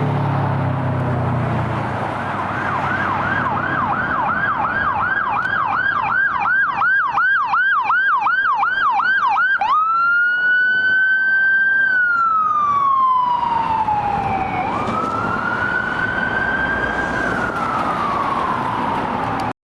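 Fire engine's electronic siren in a fast yelp, about three sweeps a second, then switching to a slow wail that rises, holds and falls twice before cutting off suddenly. The truck's engine is heard pulling away at the start.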